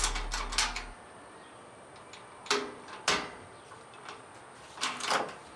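A few sharp clicks and clacks from a retractable ratchet tie-down strap on a boat trailer being worked by hand: single clicks about two and a half and three seconds in, and a double clack near the end. The strap is faulty and does not ratchet in.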